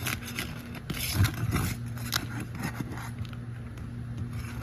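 Pry bar scraping and clicking under brittle asphalt shingles as they are lifted to get at the nails, in short irregular strokes, the loudest about a second in. A steady low hum runs underneath.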